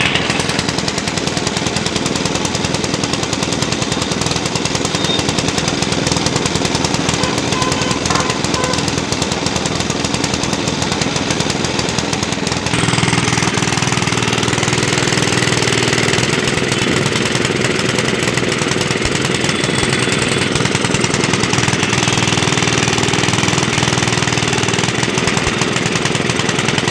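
Petrol engine driving a sugarcane crusher machine, running steadily with a fast, even clatter. About halfway through, its sound shifts and gets a little fuller and louder in the low end.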